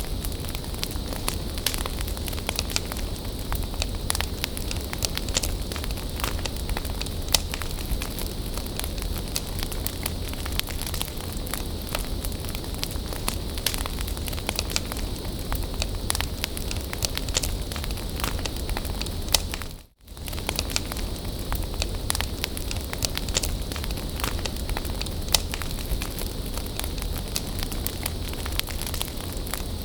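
Wood bonfire burning with steady crackling and frequent small pops. The sound dips away almost to silence for a moment about two-thirds of the way through, then comes straight back.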